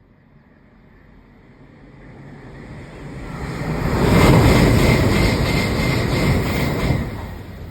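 Shinkansen bullet train approaching and passing at speed: a rushing noise that builds for about four seconds, holds with a regular pulsing as the cars go by, then dies down near the end.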